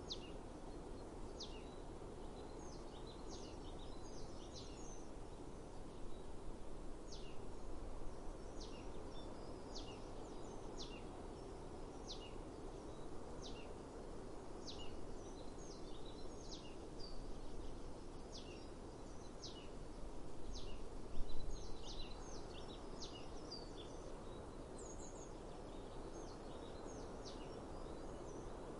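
Small birds chirping over and over, in short, high notes that each drop sharply in pitch, over a steady outdoor background noise.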